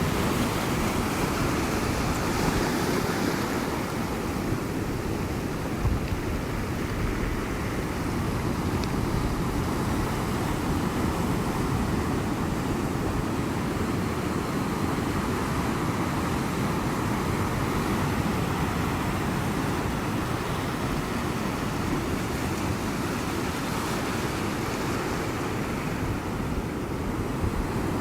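Ocean surf on the shore: a steady wash of waves with a low rumble and no distinct breaks standing out.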